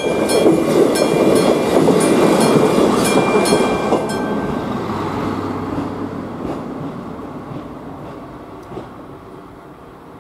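A ČD class 814 diesel railcar passes the crossing, its rumble fading away. Over it the level crossing's mechanical warning bell rings at about two and a half strikes a second and stops about four seconds in as the crossing clears.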